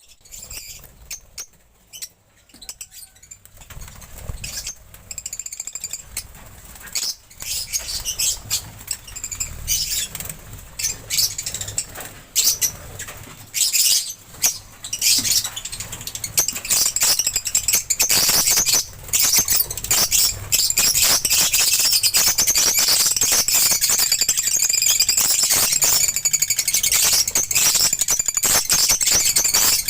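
Lovebirds chirping and chattering, sparse and faint at first, then a dense, continuous, high-pitched chatter from about halfway through.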